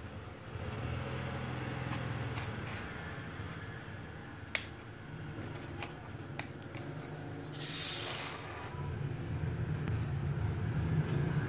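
Small electric motors of a 1:24 remote-control stunt dump truck toy running in spurts, a steady low whir, with scattered clicks and knocks of the toy and one sharp click about four and a half seconds in. A brief hiss near eight seconds.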